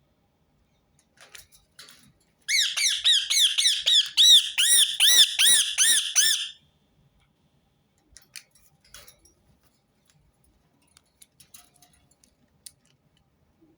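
Rose-ringed parakeet calling a rapid run of high-pitched screeches, each note rising and falling, about four a second for some four seconds, followed by a few faint clicks.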